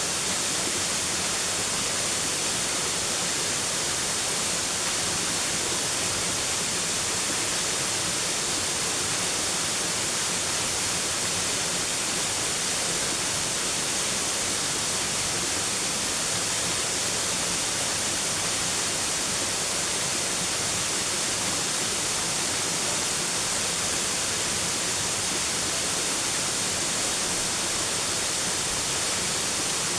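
Steady rushing of a waterfall, an even hiss strongest in the high range with no change in level.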